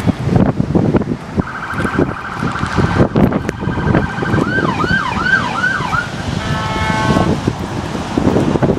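An emergency vehicle siren switching through its patterns: a fast steady warble, then a rapid rising-and-falling yelp, then a brief horn-like blast near the end. Heavy wind buffets the microphone throughout.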